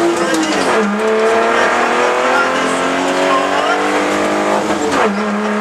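BMW E30 rally car's engine under hard acceleration, heard from inside the cabin: the pitch climbs steadily and drops sharply at upshifts about a second in and again near the end.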